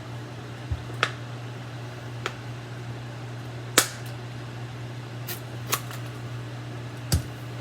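Microwave oven running with a steady low hum while heating a cup of water. Several short, sharp clicks and taps are scattered over it, the loudest about halfway through.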